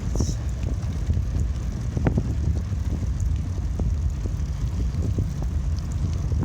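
Wind rumbling on the microphone of a camera carried on a moving bicycle, a steady low rumble with scattered small knocks.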